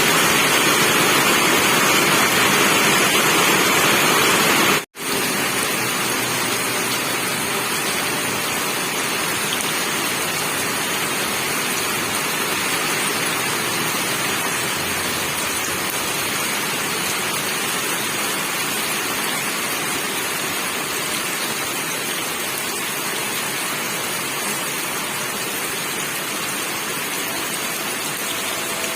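Steady, heavy rain. About five seconds in it cuts out for an instant, then carries on a little quieter.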